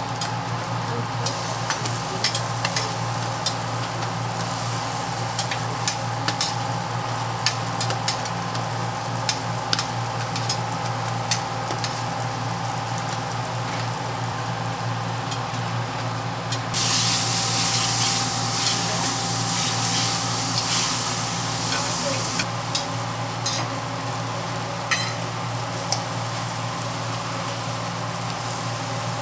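Hotteok frying in oil on a flat steel griddle: steady sizzling, with frequent short clicks and scrapes of metal tongs and spatulas on the griddle. About halfway through, the sizzling gets louder and hissier for about five seconds. A steady low hum runs underneath.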